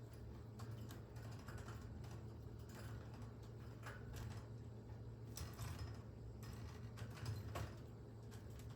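Budgerigar clicking and tapping about its cage: irregular light clicks and taps, over a steady low hum.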